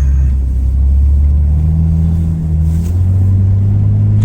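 Vehicle engine running with a low, steady drone whose pitch steps up about three seconds in.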